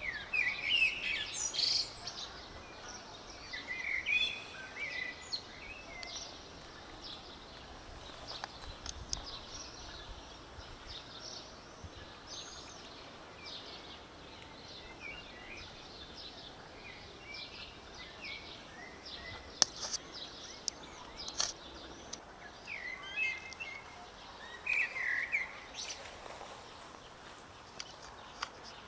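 Small birds chirping in short bursts over a steady outdoor background hiss, with a couple of sharp clicks about two-thirds of the way through.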